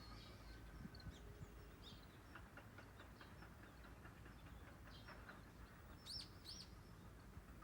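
Faint birds chirping in short scattered calls, with two louder arching chirps about six seconds in, over faint low background noise.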